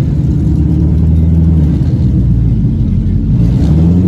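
Car engine running with a steady low drone that dips briefly about three seconds in, then picks back up.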